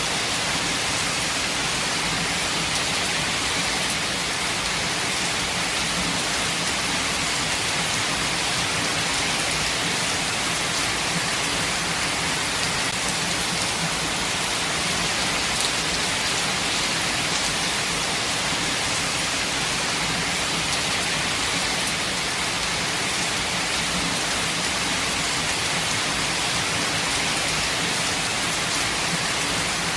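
Steady rainfall, an even hiss of many drops that holds at one level throughout.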